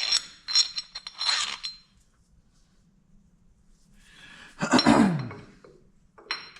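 Steel tools and parts clinking and ringing against each other, in a quick run of clinks over the first second and a half. A louder clattering scrape comes about five seconds in, and one more clink near the end.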